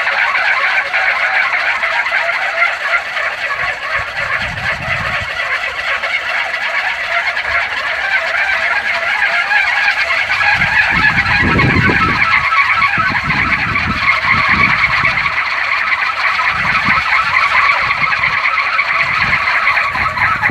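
A kolecer, a Sundanese wind propeller about one and a half metres across, spinning in the wind and giving a steady, loud whirring drone. Gusts of wind buffet the microphone in low rumbles, about four seconds in and repeatedly from about ten seconds on.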